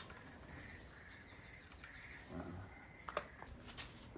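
Faint birds chirping in the background, with one light metallic clink about three seconds in and a few small ticks after it.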